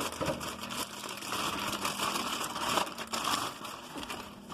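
Crinkling and rustling handling noise, irregular and crackly, with a faint steady hum underneath.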